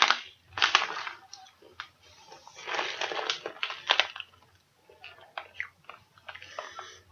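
Someone chewing a crunchy praline snack of pecans and cashews close to the microphone, with irregular crunches and crackles.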